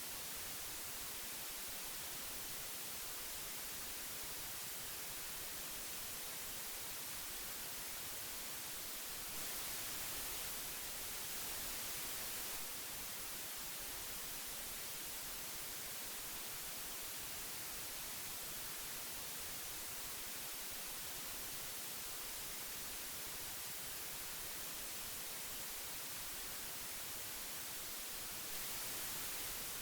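Steady hiss of an old audio tape playing: an even, high-leaning noise with no tones, a touch brighter for a few seconds about a third of the way in and again near the end.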